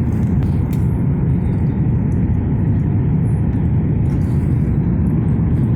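Steady low rumble of airliner cabin noise, engines and rushing air, picked up with the phone pressed against the cabin window during the descent to land.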